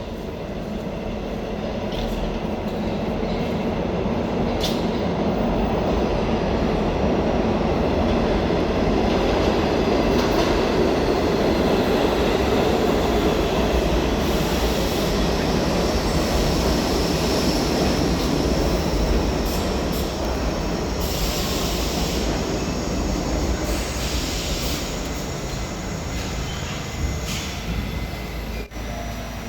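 New York City subway train pulling into an underground station: a rumble that grows louder, then high wheel and brake squeal as it slows down.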